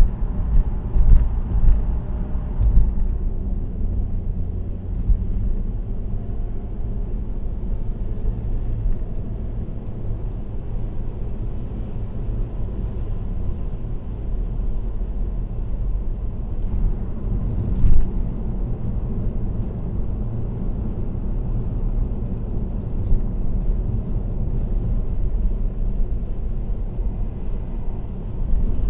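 Steady low road and tyre rumble of a car cruising on an expressway. The rumble is rougher for the first few seconds, then settles, with one brief thump about two-thirds of the way through.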